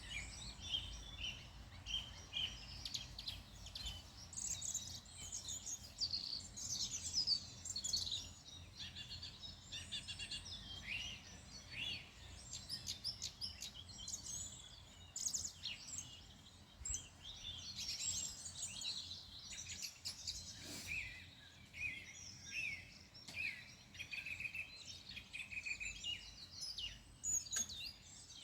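Several songbirds singing and chirping together, a busy mix of short high calls and trills, over a faint low background rumble.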